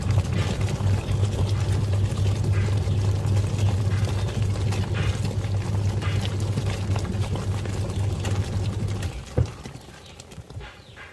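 Twin-tub washing machine's wash motor running with a steady low hum, churning water and foam while toy rubber ducks clatter in the tub. The motor cuts off about nine seconds in, followed by a single knock and quieter sloshing.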